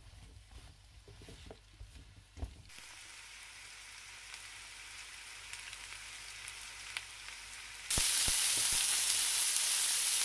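Chopped vegetables (zucchini, bell pepper, mushrooms) sizzling in hot oil in a frying pan on high heat, with a few knocks of a wooden spatula stirring them at first. The sizzle sets in steadily after a couple of seconds and turns suddenly much louder near the end.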